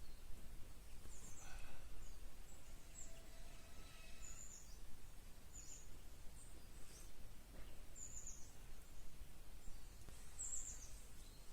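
Small birds giving short, high, falling chirps every second or two over a faint steady background hiss.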